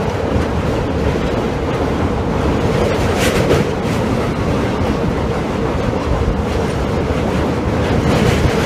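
Passenger coach of an Indian Railways express train running at speed: a steady rumble of the wheels on the track, with a brief hissing rush about three seconds in and again near the end.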